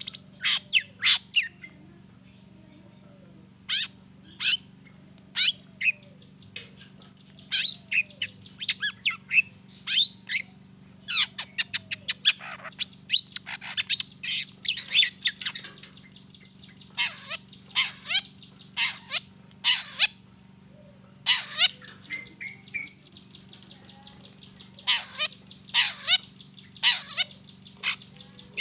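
Long-tailed shrike (cendet) singing: runs of short, harsh, sharp calls with stretches of a fine, high buzzing trill, over a steady low hum.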